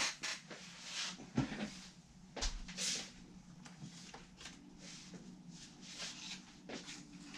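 Handling noises from guitar assembly work: light knocks, taps and scrapes of parts and tools at irregular intervals, the loudest between about one and three seconds in, over a faint steady hum.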